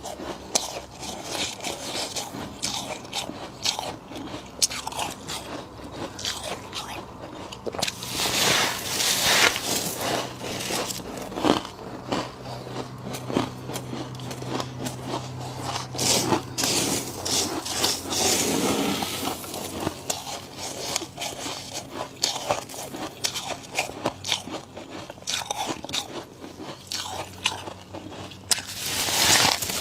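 Thick frost being bitten and chewed close to the microphone: a dense run of crisp crunches, louder in spells about a third of the way in and again near the end.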